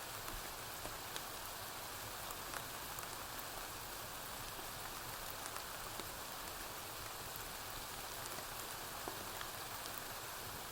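Steady rain falling, with scattered faint crackles and pops from a wood fire.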